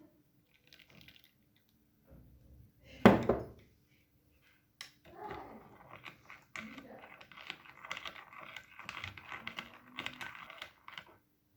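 A loud thunk about three seconds in, then a run of small clicks and crinkling, like things being handled.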